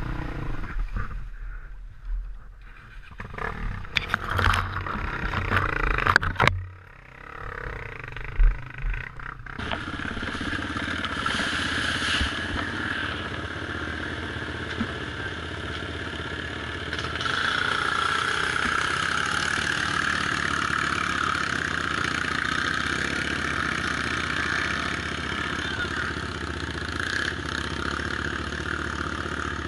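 Off-road motorcycle engines running. The first few seconds are uneven, with loud knocks and clatter; after a sudden change, the engine sound holds steady.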